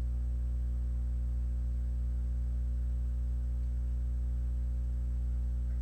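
Steady low electrical mains hum, a constant buzz with a stack of evenly spaced overtones.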